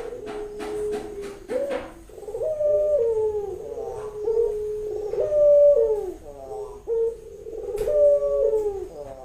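Female Barbary dove (burung puter) cooing in repeated mid-pitched coos that end in falling glides, with a few sharp clicks near the start and near the end. This is the call of a hen in breeding condition, calling a male to mate.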